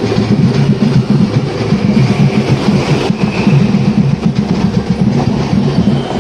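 Vande Bharat Express electric trainset rolling past, with a loud steady rumble of wheels on the rails.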